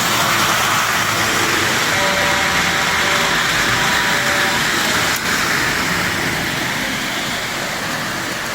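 Lionel model trains running on the layout, a steady rolling rush of wheels on track. A faint thin tone comes and goes in the middle, and a single click sounds about five seconds in.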